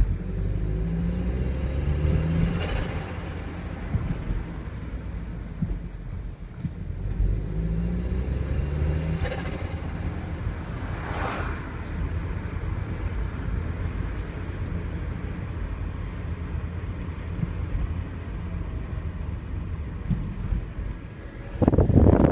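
1999 VW Passat 1.8 20-valve turbo four-cylinder revved twice from idle through an open Ramair air filter. Each rev is followed by a short fluttering rush of turbo flutter as the throttle shuts, and there is a louder burst of sound near the end.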